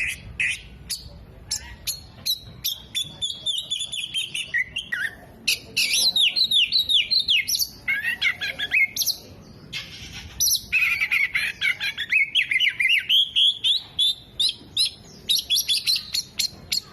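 An oriental magpie-robin singing a loud, rapid, varied song. It repeats runs of quick falling whistled notes between sharp chips and squeaky phrases, with a couple of brief breaks.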